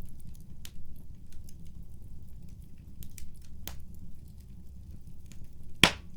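Wood fire crackling: a steady low rumble with scattered sharp pops and ticks, and one much louder pop a little before the end.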